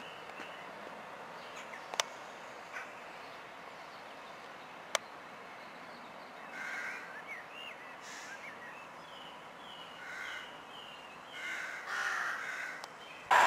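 Birds calling in short bursts over faint outdoor hiss, with a couple of sharp clicks about two and five seconds in. A loud sound cuts in abruptly at the very end.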